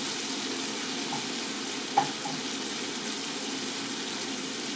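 Chicken pieces sizzling steadily as they fry in oil in a large pan, with one short click about two seconds in.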